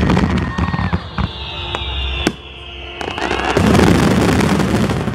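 Fireworks display: sharp bangs and crackling pops, with a long whistle falling slowly in pitch through the middle. About three and a half seconds in, a louder rush of noise comes as a large burst goes off overhead.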